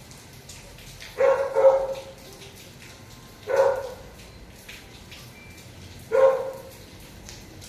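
A dog barking: two quick barks about a second in, then single barks at intervals of about two and a half seconds.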